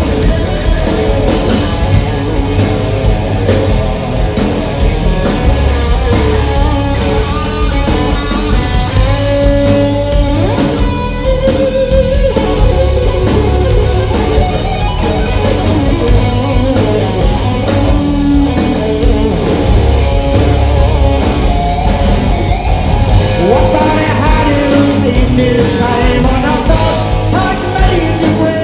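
Live rock band playing an instrumental passage: a guitar line with held, bending notes over steady drums and bass.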